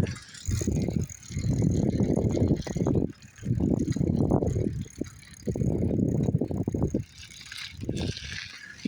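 A bicycle being ridden, rattling along in uneven surges of a second or two with short lulls between.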